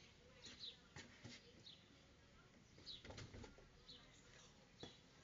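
Faint bird chirps: short falling notes about once a second, heard through a doorbell camera's microphone over near silence. A few soft knocks come about three seconds in.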